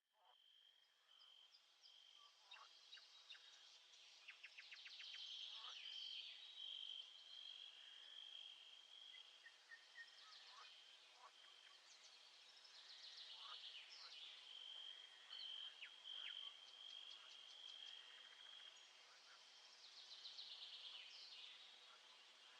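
Faint nature ambience: a cricket chirps in a steady high pulsing trill while birds sing trilled, sliding phrases every few seconds over it.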